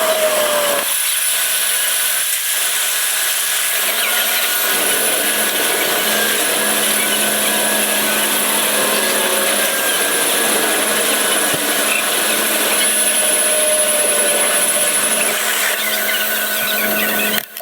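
Pressure-washer spray wand running steadily at a self-serve car wash: a loud, even hiss of spray over a low steady pump hum.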